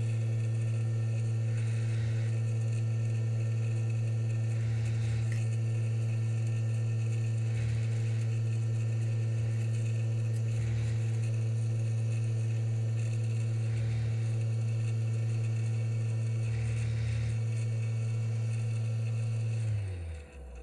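An electric fan motor on a soldering bench running with a steady hum. It is switched off just before the end, its pitch falling as it spins down.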